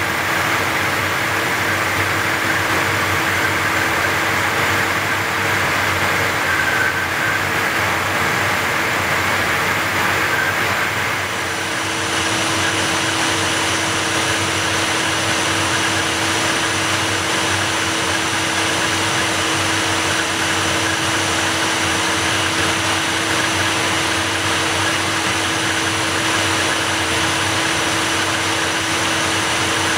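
Steady cockpit noise of a Learjet 35 in flight: a constant rush of airflow over the hum of its twin turbofan engines, with a few steady tones. About eleven seconds in the sound changes, the rush easing slightly and a higher steady whine coming in.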